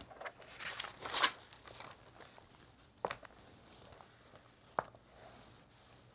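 Soft rustling of objects being handled, loudest about a second in, followed by two short sharp taps about two seconds apart.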